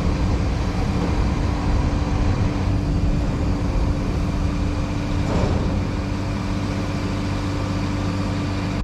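Farm machinery running steadily: an even drone with a constant hum and no change in speed.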